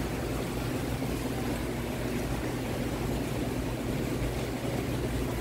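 Hurricane-force wind and heavy rain, a steady low rumble with an even hiss over it.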